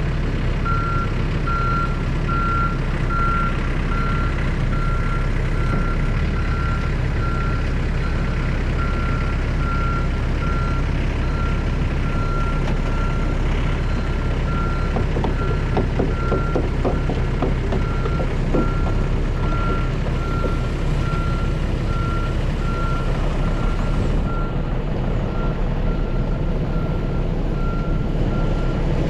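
Backup alarm beeping at an even, repeating pace over a diesel engine running steadily, with a few clicks and knocks partway through.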